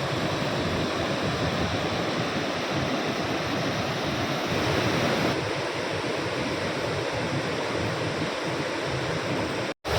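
Pykara Waterfall: a steady rush of heavy water pouring over rock.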